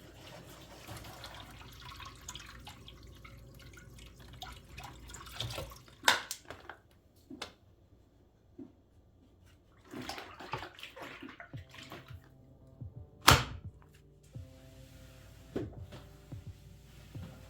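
Water running and splashing, broken by several sharp knocks and clatters of things being handled; the loudest knock comes about two-thirds of the way through.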